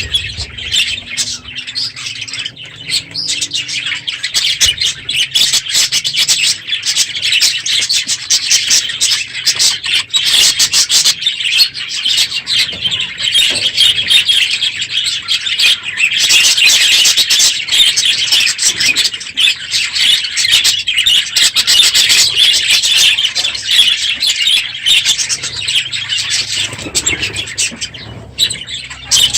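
A large flock of budgerigars in an aviary chattering and chirping all at once, a dense, loud, continuous warbling. The aviary is at its fullest at the end of the breeding season, which the owner gives as the reason for the noise.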